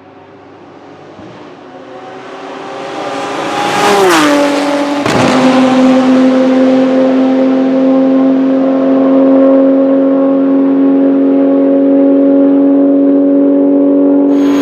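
Porsche 997 GT2 RSR's twin-turbo 3.9-litre flat-six racing engine, getting louder and slightly higher in pitch, dropping quickly in pitch about four seconds in, with a sharp crack a second later. It then holds a steady, loud note.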